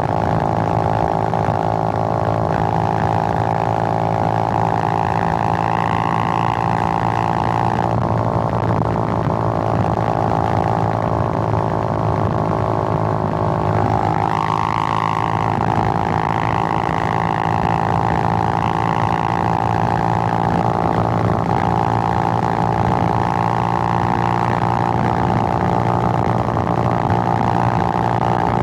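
Suzuki GN125's single-cylinder four-stroke engine running while the bike is ridden, a steady note that drops about eight seconds in and rises again about halfway through.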